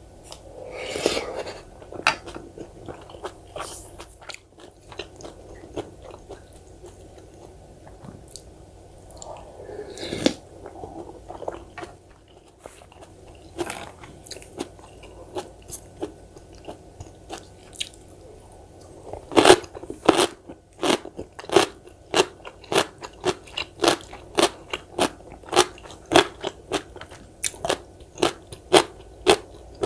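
Close-miked chewing of kkakdugi, cubed radish kimchi: soft mouth sounds at first, then from about two-thirds of the way in a steady run of crisp crunches, about two a second.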